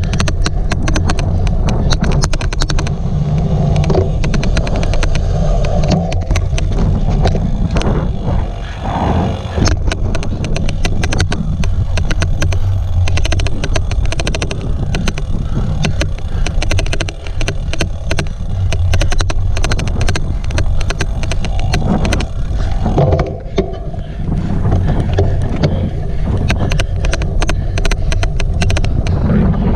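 A cyclocross bike being ridden hard over rough ground, heard on the rider's own camera: wind buffeting the microphone and tyre rumble, with many sharp irregular clicks throughout, the odd clicking noise the rider warns about.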